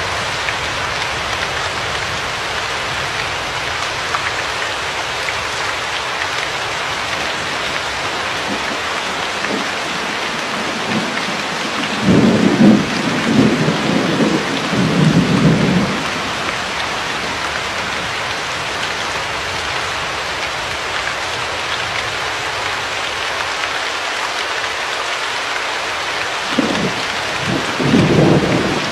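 Steady heavy rain hissing, with rolls of thunder rumbling twice: a longer roll about twelve seconds in lasting some four seconds, and another starting near the end.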